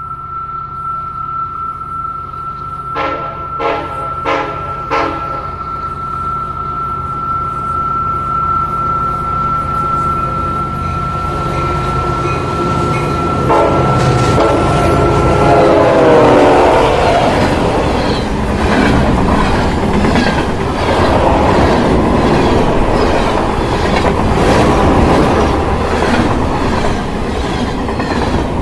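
A train going by: three short horn blasts a few seconds in, then a longer horn that falls in pitch about halfway through. After that, loud rhythmic clatter of wheels over the rail joints.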